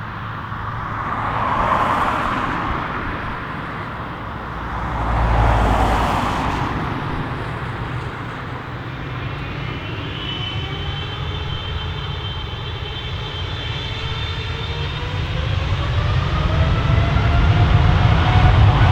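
Boeing 777-300ER's GE90 turbofan engines spooling up for takeoff. A whine rises in pitch from about halfway through over a steady low rumble, and the engines grow louder toward the end. Two brief swells of noise come in the first half.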